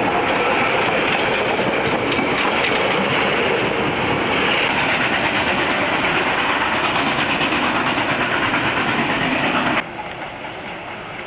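Train running by at speed, a loud steady rumble with wheels clicking over the rail joints. The sound drops away suddenly near the end to a quieter rumble.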